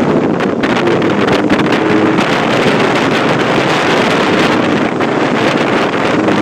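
Lamborghini Huracán Evo Spyder's V10 engine running on the move, under heavy wind noise buffeting the microphone.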